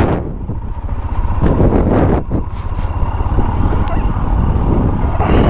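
A road vehicle's engine and road noise, a steady rumble as it gets under way.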